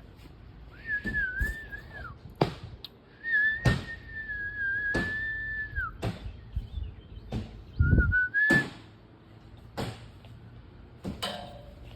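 A person whistling long, slightly wavering held notes in three phrases, the middle one the longest. Sharp knocks and thuds come in between.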